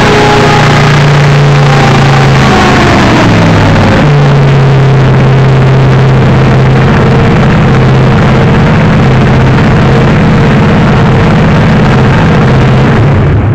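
PJ-II Dreamer aircraft engine driving its ducted fans in a ground test run, very loud. It runs at high speed, slows to a lower steady speed about three seconds in, then holds there.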